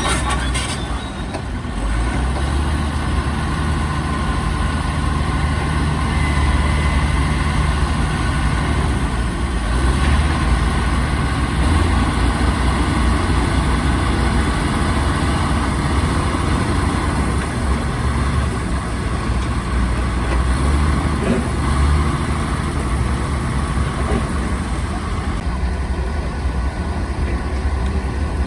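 Diesel engines of heavy earthmoving machines running steadily, a low rumble that swells and eases as they work under load.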